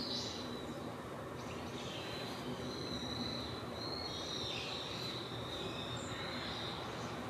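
Birds calling, with short high calls over a steady outdoor background noise and a thin high tone held through most of the stretch.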